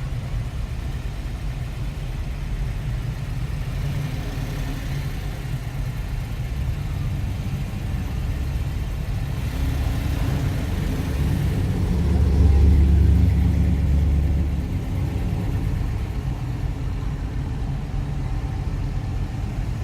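Cars cruising past on a street, their engines running low and deep; one passes close and is loudest from about twelve to fourteen seconds in, then fades.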